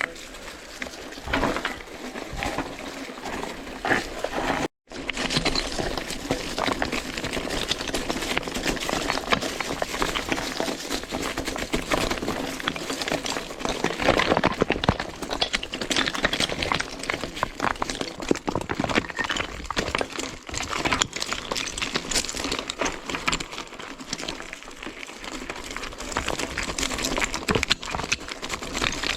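Mountain bike rolling over a rocky forest road: tyres crunching on loose stones and the bike rattling with constant small knocks. The sound drops out for an instant about five seconds in.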